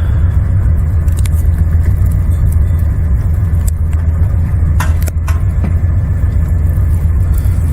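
Steady low rumble of a car heard from inside the cabin, with a couple of faint clicks a little after the middle.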